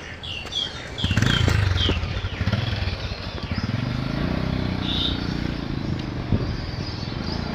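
A motorcycle engine running close by, loud from about a second in and slowly fading, over small birds chirping in short, repeated falling notes.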